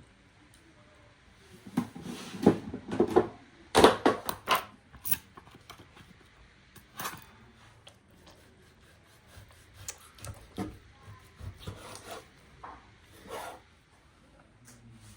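Irregular knocks, clicks and rubbing from food and utensils being handled during cooking prep, densest about two to five seconds in.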